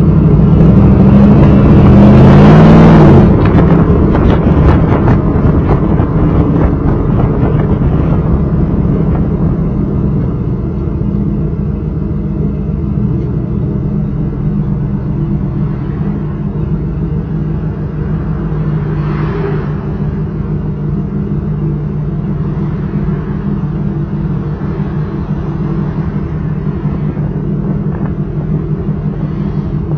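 1995 Chevrolet Camaro Z28's LT1 V8 running through a Flowmaster exhaust: it revs up and back down once about two to three seconds in, then runs steadily.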